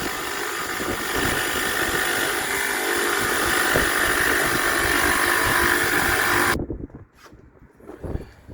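Power tool running hard on the steel bench work for about seven seconds, a loud hissing whine that cuts off suddenly near the end.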